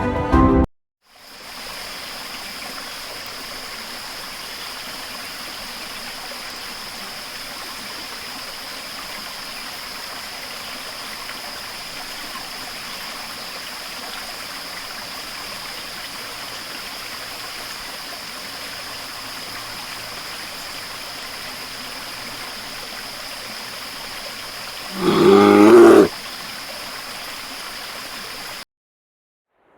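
A river rushing steadily over rocks. About 25 seconds in, a grizzly bear growls once, loud and lasting about a second.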